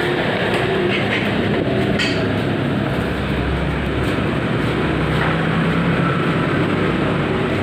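A machine running steadily, a continuous mechanical rumble with a faint low hum and a few light clicks.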